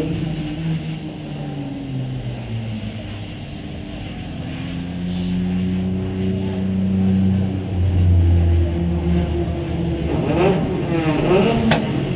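Race car engine running at low, fairly steady revs, its pitch drifting gently, then rising and falling several times near the end.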